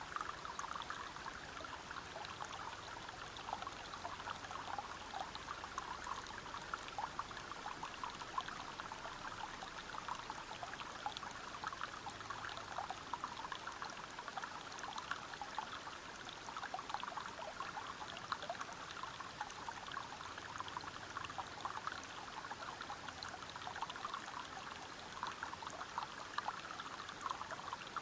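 Stream water splashing and trickling over rocks, a steady flow full of small splashing ticks.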